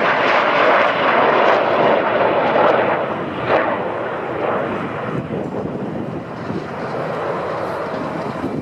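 Jet noise from a formation of Northrop F-5E Tiger II fighters passing overhead. It is a loud, rushing noise that fades gradually after about three seconds as the jets move away.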